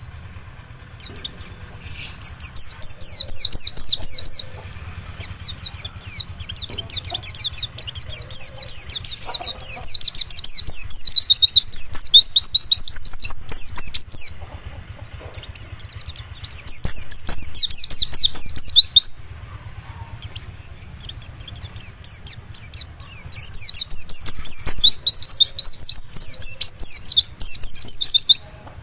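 Wild pleci dakun, a white-eye, singing long chattering phrases of very rapid high notes, each run lasting several seconds with short pauses between; this is the song used as a lure to set kept white-eyes singing.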